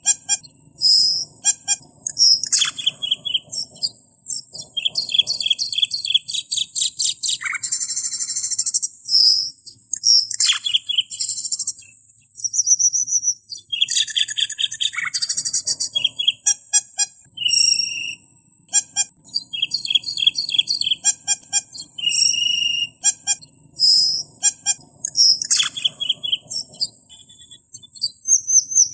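Cemperling (called camperling) songbird singing a varied, continuous song of sharp chirps and fast trills of repeated notes, with brief pauses between phrases, as used for masteran training recordings.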